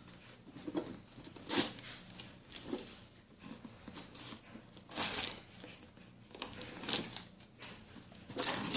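Gift-wrapping paper rustling and tearing in short, irregular bursts as a present is unwrapped by hand.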